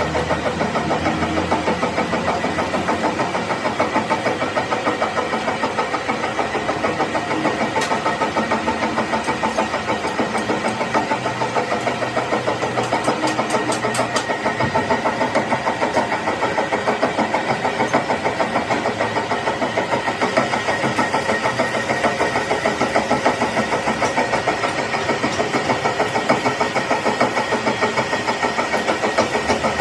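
Metal lathe running steadily, its motor and gearing giving a constant hum with a thin whine and a fast, even chatter. A few sharp ticks come about eight seconds in and again about thirteen to fourteen seconds in.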